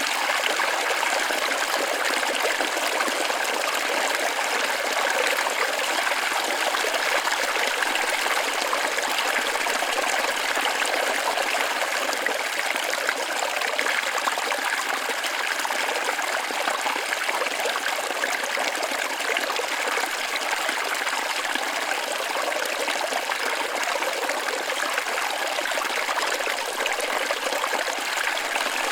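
Waterfall running steadily: an even rush of water with little deep rumble.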